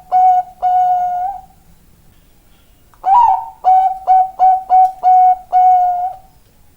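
Bangkok-type zebra dove (perkutut) singing its cooing song. One phrase ends in a long drawn-out note. About three seconds in a new phrase starts with a rising note, runs through a quick series of short coos and ends on two longer ones.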